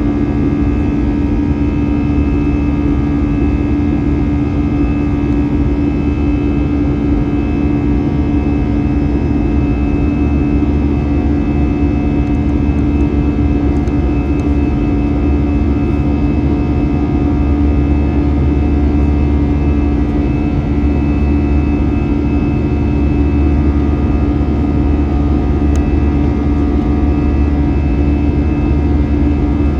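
Airbus A321 jet engines heard inside the passenger cabin: a steady drone with a deep rumble and a few constant humming tones, the low rumble swelling slightly about halfway through.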